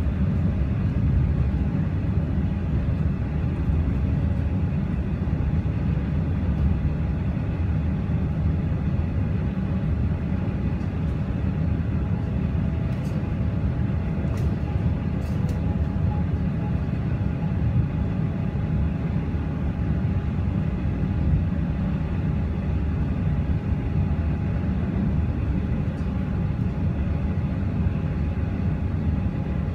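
Inside the carriage of a moving electric suburban train: steady low rumble of the wheels running on the track, with a faint hum over it and a few light ticks about halfway through.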